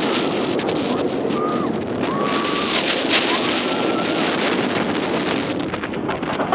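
Wind rushing over the microphone on a moving roller coaster, with steady rumbling track noise and a few short rising-and-falling whines.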